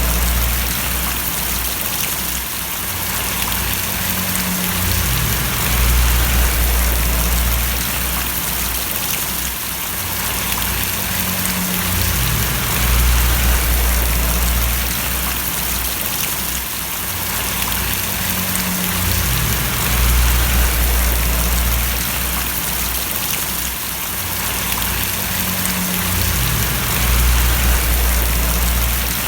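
Steady rain falling and pattering, an even hiss throughout. Under it a low hum swells and fades about every seven seconds, with a short bend in pitch each time it fades.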